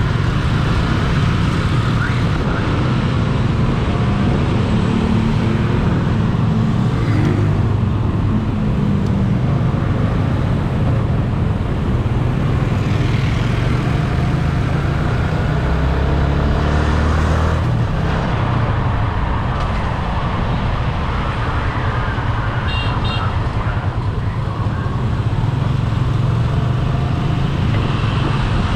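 Road traffic and a vehicle engine running, heard from a moving vehicle: a steady low engine drone that shifts in pitch, under road noise. A short run of high pips about two-thirds of the way through.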